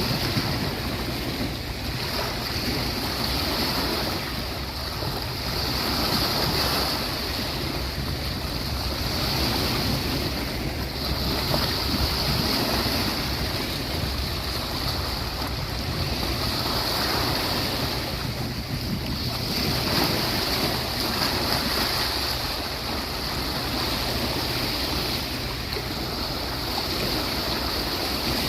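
Ocean waves washing onto a beach, a continuous rushing that swells and eases every few seconds.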